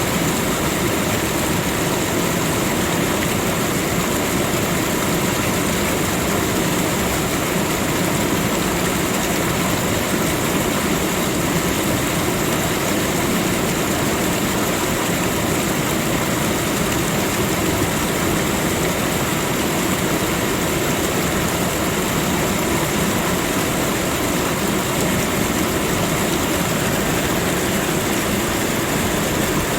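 Steady, unchanging rushing noise of a natural ambience, with a faint high steady hiss on top.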